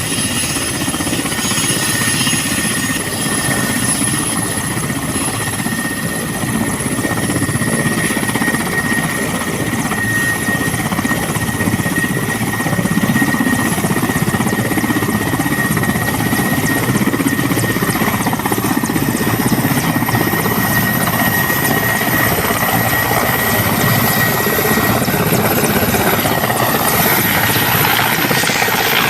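Mil Mi-17 helicopter running steadily: twin turboshaft engines and rotor, with a steady high turbine whine over the rotor noise.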